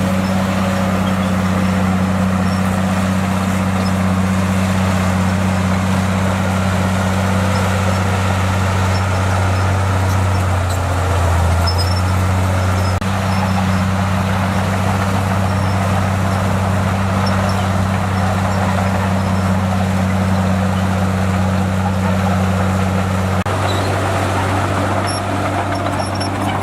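Bulldozer's diesel engine running steadily at working revs, its deep drone shifting briefly about eleven seconds in and again near the end.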